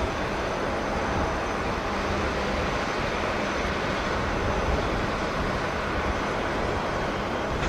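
Steady rumble of jet airliner engines, with a faint high whine above the wide noise.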